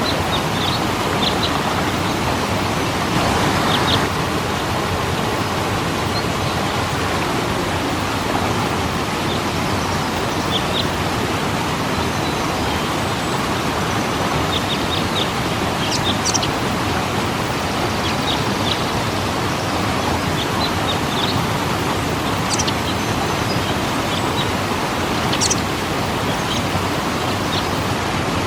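Waterfall rushing steadily, with a brief surge about three seconds in. Small birds chirp now and then over the water, in short high calls scattered throughout.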